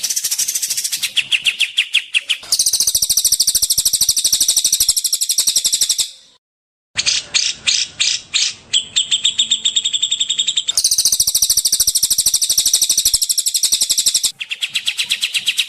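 Recorded songbird calls: fast, evenly repeated high chirps in trills of about ten notes a second, switching abruptly between different trill patterns, with a brief silent break about six seconds in.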